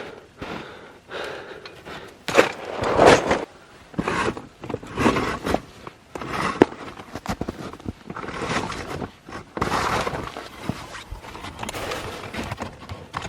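Packed snow being dug and scooped, crunching and scraping in irregular strokes, with a few sharp cracks.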